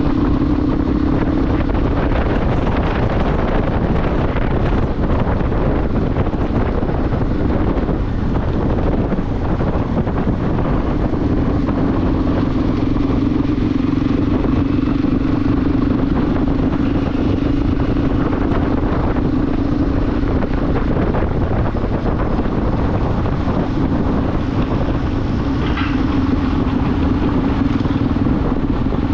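Motorcycle riding at a steady speed, its engine holding one steady note under heavy rushing wind noise on the microphone. About two seconds in the engine note fades for several seconds, then comes back and holds.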